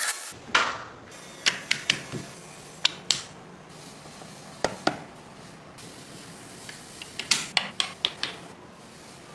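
Light, sharp clicks and taps of small wooden parts being handled and set down on a workbench, coming in small clusters of two to five, over a faint steady hum.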